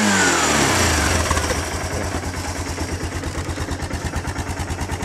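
1998 Kawasaki Bayou 300's single-cylinder four-stroke engine just after a cold start: the revs fall off in the first second or so, then it settles into a steady, even idle.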